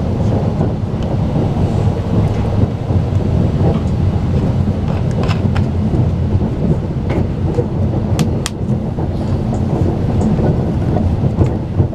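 Running noise of a Talgo passenger car at speed, heard from inside the carriage: a steady low rumble from the wheels and track, with a few sharp clicks.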